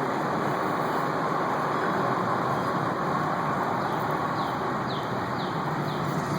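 A motor running steadily under an even rushing noise. From about four seconds in, a bird gives a run of about five short, high, falling chirps.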